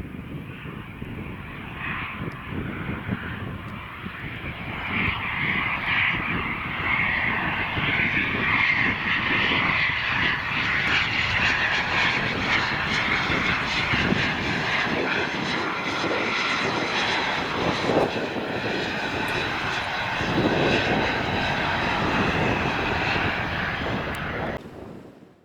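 Jet aircraft engines passing close by: a high whine made of several steady tones over a rumble. It grows louder over the first few seconds, holds steady, then cuts off suddenly near the end.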